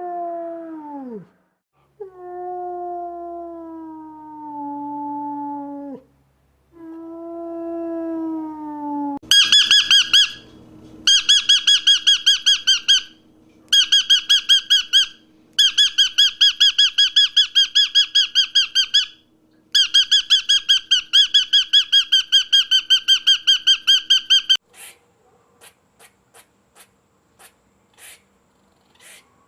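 A wolf howls three long, falling howls. Then an animal gives high-pitched squeaking calls, repeated rapidly at about eight a second in several bursts of a few seconds each. Faint scattered clicks follow near the end.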